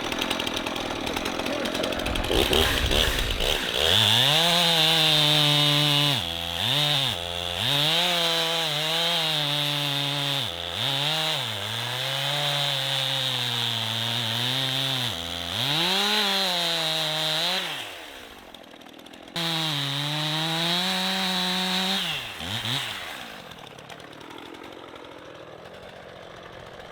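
Chainsaw cutting into a tree stump, its engine screaming at high revs and repeatedly dropping in pitch as it bogs down under load in the wood, then picking back up. It drops out for about a second partway through, comes back, and stops near the end.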